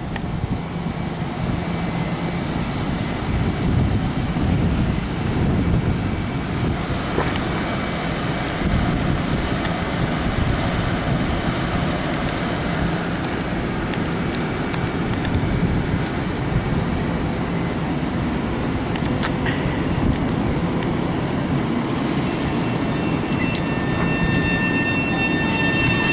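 Long Island Rail Road electric train running past at the platform, a steady rumble of wheels on the rails with no horn sounded. Near the end, a whine comes in and rises in pitch.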